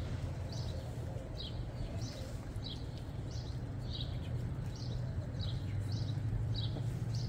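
A bird chirping over and over in an even series of short, high chirps, about two a second, over a steady low hum.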